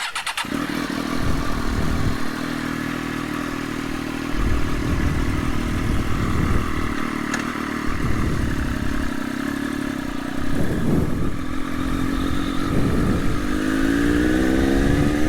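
Triumph Daytona Moto2's three-cylinder engine, with a link pipe in place of the stock muffler, running at a steady idle and then rising in revs near the end.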